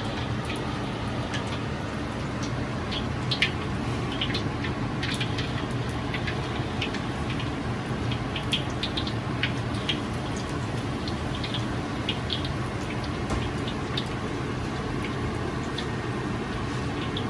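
Frog legs cooking in a kitchen: scattered sharp pops and ticks over a steady low hum.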